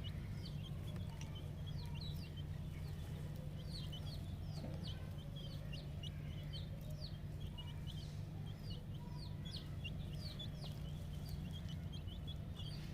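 A brood of 10-day-old chicks peeping continuously: many short, high peeps that drop in pitch, several a second and overlapping, over a steady low hum.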